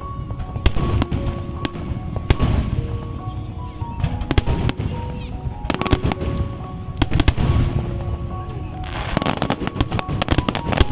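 Aerial fireworks display: repeated sharp bangs of shells bursting, rising to a dense crackling flurry near the end.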